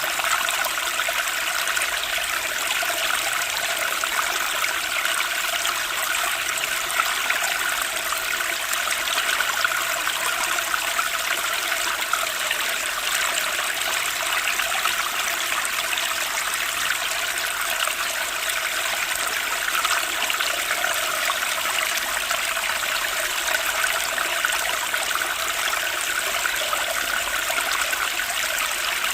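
Stream water flowing and trickling steadily, a constant rushing babble.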